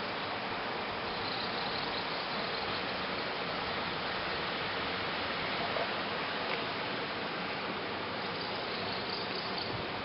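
Steady outdoor ambience by a rice paddy: an even rushing noise, with faint high insect chirring that comes through early on and again near the end.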